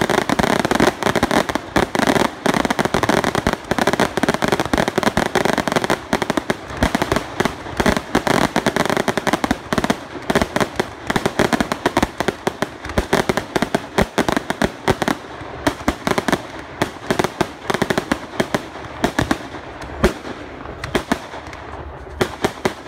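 Fireworks display: a dense, rapid barrage of bangs and crackles that thins out over the last several seconds into separate bangs.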